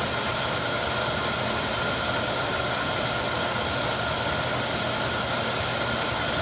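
Steady, even machine roar with a faint constant high tone running through it.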